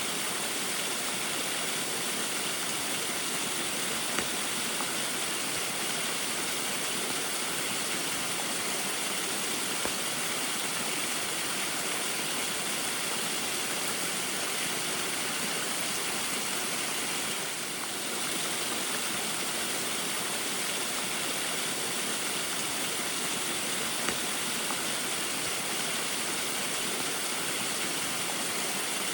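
Steady rushing of a small waterfall mixed with falling rain, dipping slightly for a moment a little past the middle.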